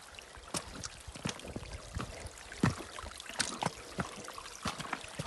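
Footsteps on loose stones and rock, a sharp crunch or scrape roughly every half second, over a steady low hiss.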